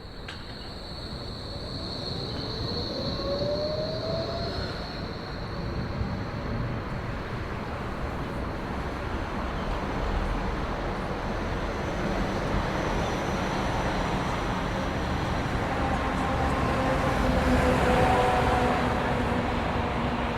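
Train running and growing louder, with a steady high squeal for the first few seconds and several steady whining tones near the end.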